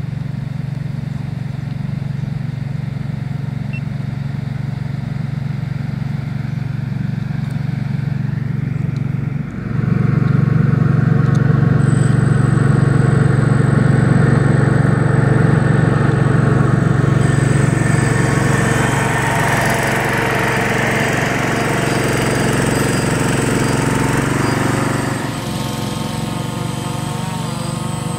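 Camera drone's rotors humming steadily in flight, growing louder about ten seconds in and falling back a few seconds before the end.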